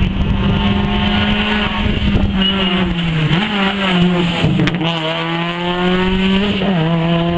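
Rally car engine running hard at high, fairly steady revs, its pitch dipping briefly and climbing back about three and a half seconds in, again about a second later, and near the end, as with gear changes or throttle lifts.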